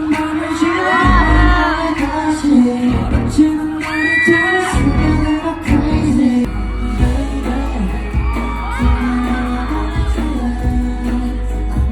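A K-pop song with singing over a bass line, played loud.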